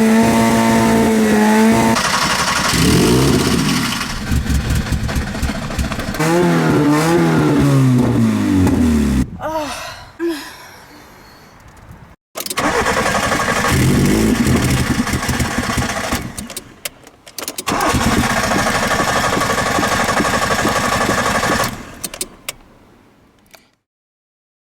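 Old Nissan Micra K11 engine struggling to start: it catches and is revved up and down with the pedal, dies away, then fires and runs again several times before cutting out.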